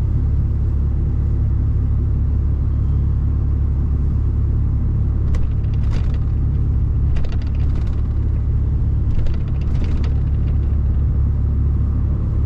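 Mercedes-Benz Actros truck's diesel engine and running gear heard as a steady low rumble while the truck drives slowly, with a few short knocks or rattles about halfway through.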